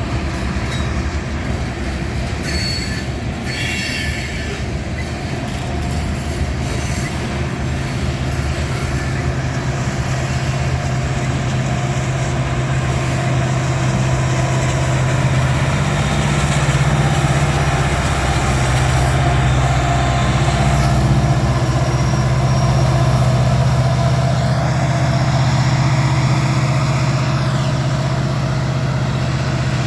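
Modern diesel-electric locomotives working hard up a steep grade: a steady low engine drone that grows louder, with short high-pitched wheel squeals a few seconds in.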